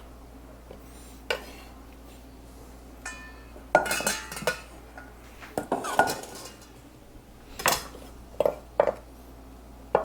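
Kitchen utensils and dishes being handled: irregular knocks and clinks, with a busier clatter and a short ringing clink about four seconds in.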